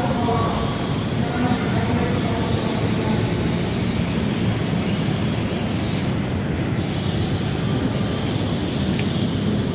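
Train passing: a steady, loud rolling rumble with a thin high-pitched squeal of steel wheels on the rails.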